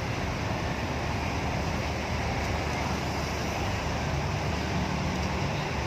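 Steady low engine rumble mixed with a general outdoor noise haze, with no distinct events.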